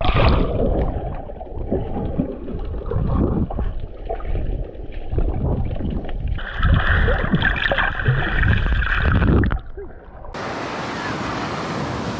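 Ocean water sloshing and splashing close to the microphone, with surf breaking, for about nine and a half seconds. It stops suddenly and gives way to a steady hiss.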